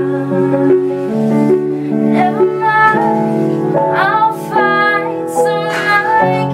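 Piano playing held chords while a woman sings over it.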